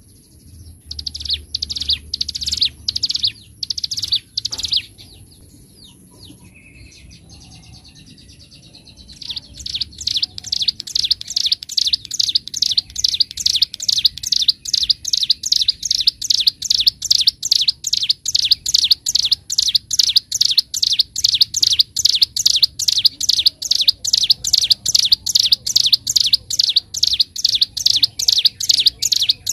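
Ciblek gunung songbird singing loud, clear, high chirps. After a brief softer pause about five seconds in, it goes into a long, fast, unbroken run of repeated chirps, about three a second: the rapid 'ngebren' song.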